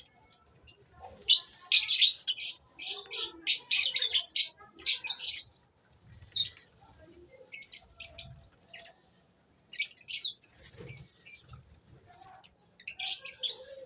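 Lovebirds chirping in short, shrill bursts: a quick run of calls over the first few seconds, then single calls and small clusters with pauses between them.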